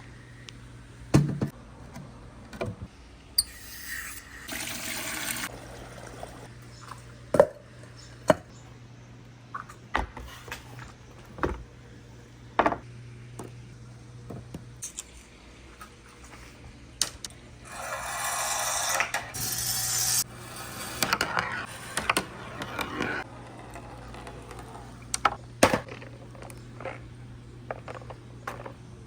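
Marbles running down a wooden marble run: scattered sharp clacks and knocks as they drop and strike the track. There are two longer rushing stretches, a few seconds in and about two-thirds of the way through, over a steady low hum.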